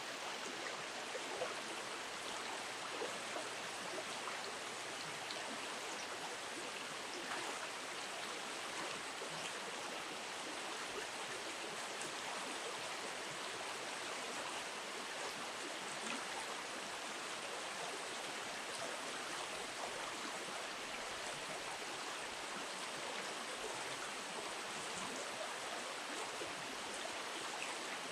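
River water running steadily, an even, continuous rush.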